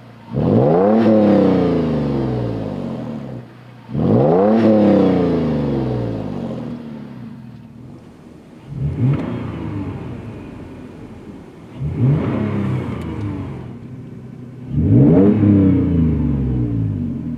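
Toyota 4Runner's 4.0L V6 revved five times through a Flowmaster FlowFX cat-back exhaust with a straight-through muffler. Each rev climbs quickly and then falls slowly back to idle. The first two are the biggest and longest; the last three are shorter blips.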